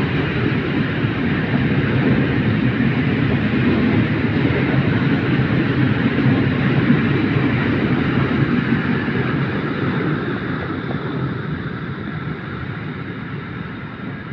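Freight train of open goods wagons rolling past on the rails, a steady noise of wheels on track that fades over the last few seconds as the end of the train moves away.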